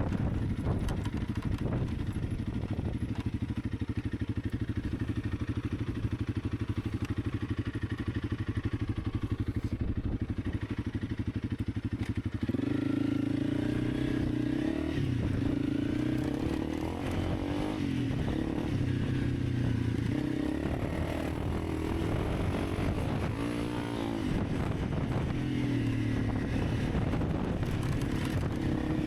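Honda CRF300 Rally's single-cylinder engine running on the move: a steady low note with rattling for the first half, then about twelve seconds in the note steps up and grows louder and rises and falls with the throttle for the rest.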